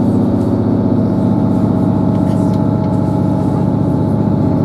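Diesel passenger train heard from inside the carriage, running steadily under power: a constant low engine and rail noise with a few steady whining tones over it.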